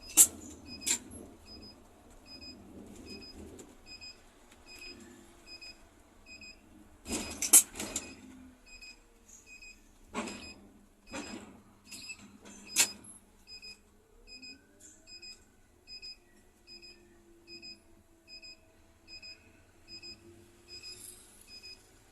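Short electronic beeps in a Scania K310 coach's cab, repeating evenly about three times every two seconds, over low cab noise. A few loud sharp knocks break in, the loudest near the start and about seven and a half seconds in.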